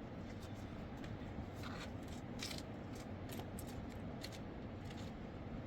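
A series of short scraping sounds, about eight in a few seconds and irregularly spaced, over a steady low background noise.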